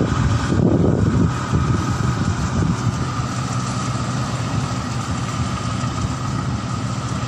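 Rice combine harvester's engine running steadily, with a constant whine above the engine note.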